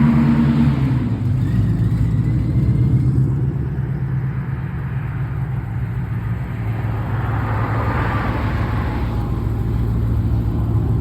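Car engine rumbling loudly, strongest in the first few seconds, then easing off before the noise swells again around eight seconds in.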